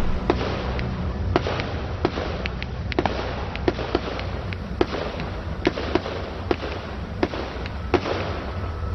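Fireworks going off: an irregular series of sharp cracks and pops from bursting aerial shells, about two a second.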